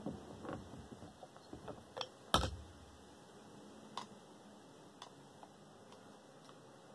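Scattered light clicks and taps of tools and small metal parts being handled while a desk fan is taken apart, with one louder knock a little over two seconds in.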